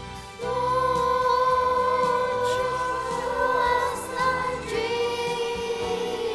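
Choir singing a song over accompaniment: voices come in about half a second in on a long held note with vibrato, then move to a new note near the end.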